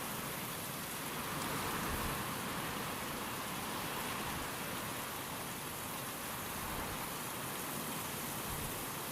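Steady rain and wind, an even hiss that swells slightly about two seconds in.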